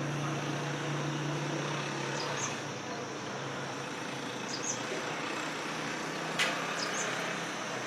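Outdoor nature ambience: a steady insect-like hiss with a short, high two-note chirp about every two seconds and a single sharp click a little after six seconds in. A low hum fades out about two and a half seconds in.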